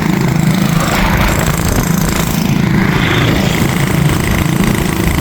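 Hero Splendor motorcycle's single-cylinder engine running steadily while riding, with road and wind noise.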